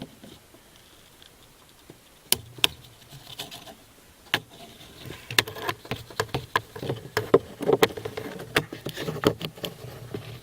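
Handling noise as a small camera is pushed and manoeuvred up into a car's heater blower motor opening: scattered clicks, taps and scraping against the HVAC housing. It starts after about two quiet seconds and gets busier toward the end.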